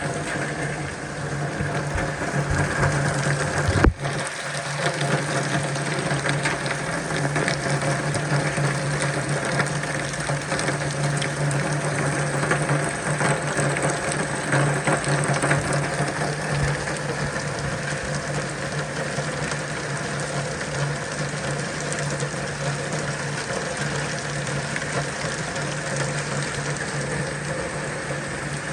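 Steady rain, with a constant low hum underneath. A single sharp click about four seconds in.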